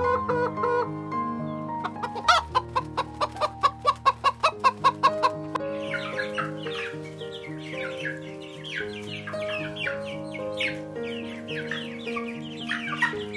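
Chickens clucking over steady background music: a quick run of sharp clucks about two seconds in, then a long stretch of short, rapid calls.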